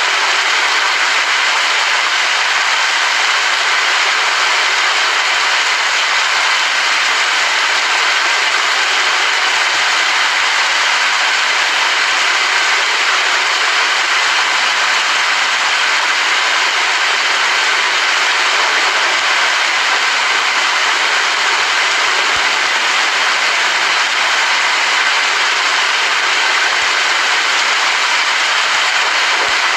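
Steady rain falling: an even, unchanging hiss with no thunder.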